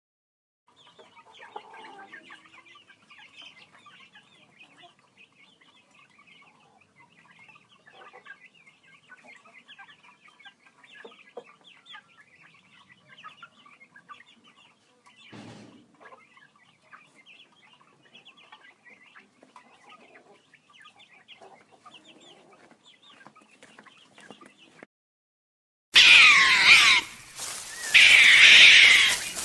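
A flock of chickens clucking, many short overlapping calls at a low level. Near the end a much louder, sustained animal cry breaks in, with brief drop-outs.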